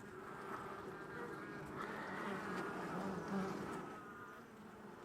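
Honey bees buzzing around an opened hive, a steady hum that wavers a little in pitch; the colony is disturbed by the inspection.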